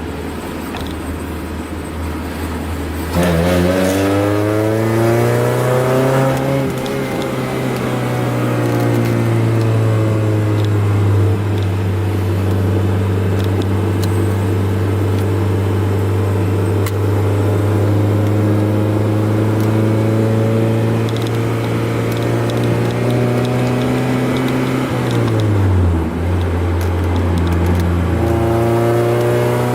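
Honda F22B1 2.2-litre SOHC VTEC four-cylinder engine in an Accord pulling hard at highway speed. About three seconds in it gets louder and its pitch climbs steeply as the car accelerates, then it holds a steady drone. Near the end it dips briefly, then climbs again.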